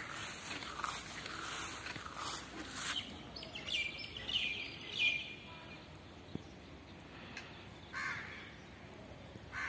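Birds calling outdoors: a cluster of short chirps about four seconds in and another call near the end, over a steady background of outdoor noise.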